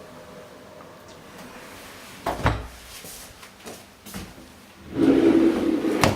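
A door or cupboard being handled: a knock about two seconds in, then a longer sliding, humming sound about five seconds in that ends in a sharp click as it shuts.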